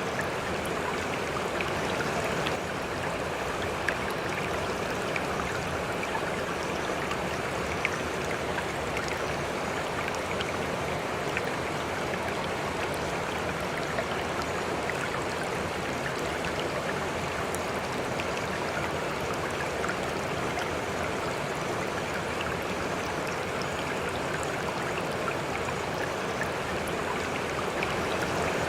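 River water running steadily, a constant rush with small splashes and drips scattered through it.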